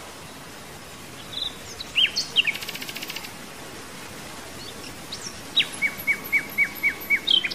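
Small birds chirping: a few calls and a quick trill about two seconds in, then near the end a run of six or seven short, evenly spaced chirps, about four a second, over a faint steady background.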